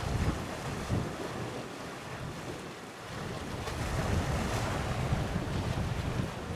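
Wind buffeting the microphone in uneven gusts over the wash of sea waves.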